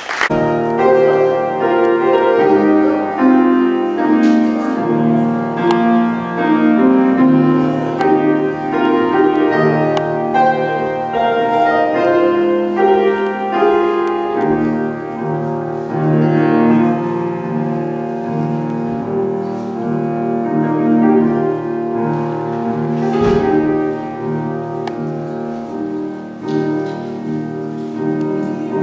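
Piano playing a slow, classical-style piece, its chords changing about every second.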